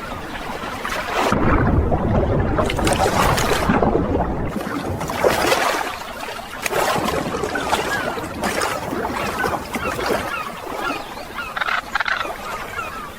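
A loud rushing noise, heaviest in the first few seconds, with many short bird calls over it through the second half.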